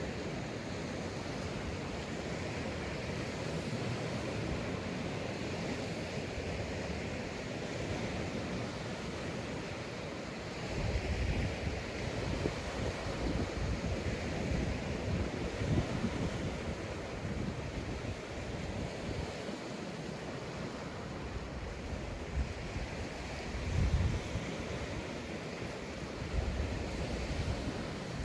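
Sea waves washing onto a sandy beach, a steady hiss of surf. From about a third of the way in, irregular low gusts of wind buffet the microphone, the strongest near the end.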